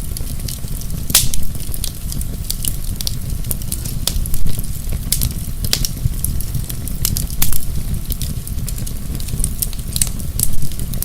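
Wood fire crackling in a fireplace: irregular sharp pops and snaps over a steady low rumble of the flames, with a louder pop every few seconds.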